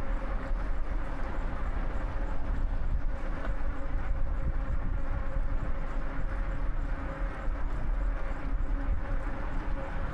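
Wind buffeting the microphone and tyre rumble from an e-bike riding on pavement, with a faint steady whine.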